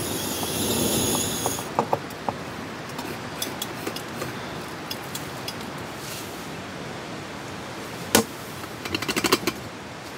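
A series of sharp mechanical clicks over a steady hiss: a louder rush of noise for the first second or two, scattered ticks, then one loud click about eight seconds in followed by a quick rattling run of about eight clicks.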